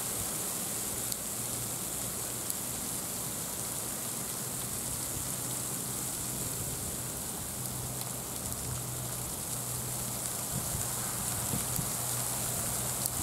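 A steady hiss with a faint low hum underneath, unchanging throughout.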